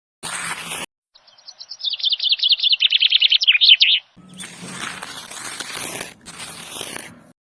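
A rapid trill of high, bird-like chirps, about ten a second for some three seconds, followed by stretches of rushing noise.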